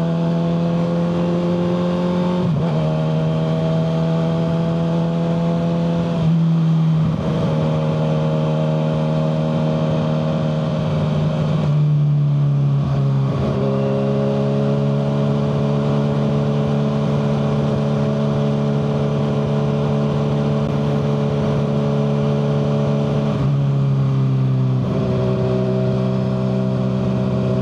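Kawasaki ZX-6R 636's inline-four engine, fitted with a Yoshimura full header exhaust, running under way at a mostly steady engine speed. The exhaust note dips and shifts in pitch several times as the revs change.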